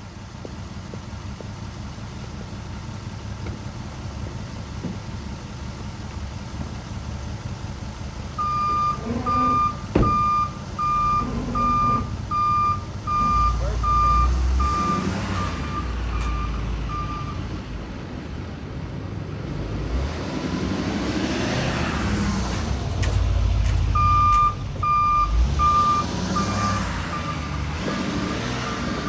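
Backup alarm on a Chevy Silverado 4500HD service truck, beeping evenly about one and a half times a second in two spells, over its Duramax diesel engine running as the truck drives in reverse and forward.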